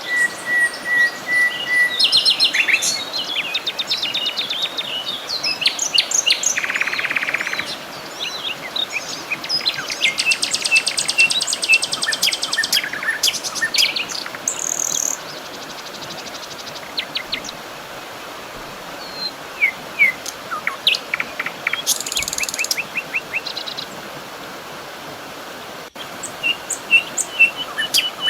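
A chorus of several birds singing and chirping, with trills and rapid chip notes, over a steady background hiss.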